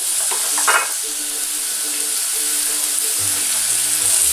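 Strips of raw zucchini sizzling as they are dropped by hand into hot olive oil in a frying pan. There is a steady high hiss, with a brief louder crackle a little under a second in.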